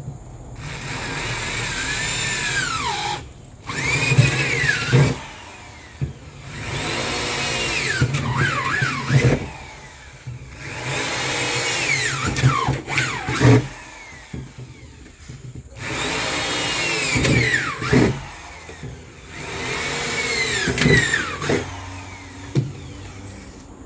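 Power drill boring a row of holes into an old freezer's shell, in about six runs of two to three seconds each with short pauses between. The bit squeals as it cuts, with a pitch that bends up and down.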